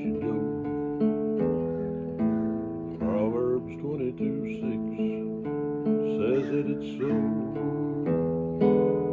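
Acoustic guitar strumming chords in an instrumental passage of a song, changing chord about once a second.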